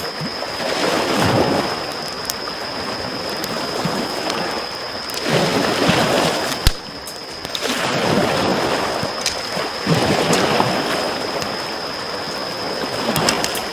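Small waves washing up on a shore, swelling and falling back every few seconds, with a wood campfire crackling and popping in sharp snaps, one loud pop near the middle. A steady high-pitched tone runs underneath.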